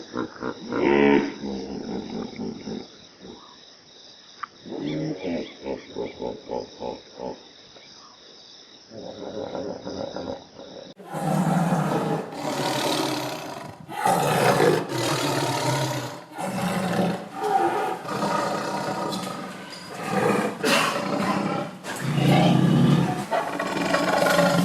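Vocal calls of a large animal in two recordings: first softer, rhythmic grunt-like pulses, then, after a cut about eleven seconds in, a run of loud calls, each about a second long, repeated with short gaps.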